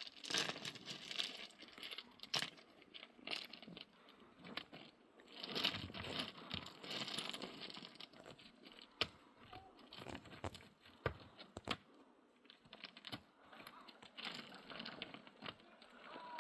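Irregular light clicks and knocks with patches of rustling, as of small hard objects being handled and set down.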